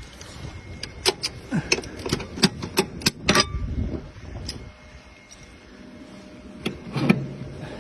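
A quick run of sharp metallic clicks and clacks, about ten in two and a half seconds, from the latches on a Boeing 777 engine cowl being worked by hand. Near the end comes another short clatter, over a faint steady hum.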